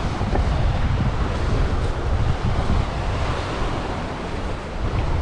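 Wind buffeting the microphone: an uneven low rumble under a steady rushing hiss.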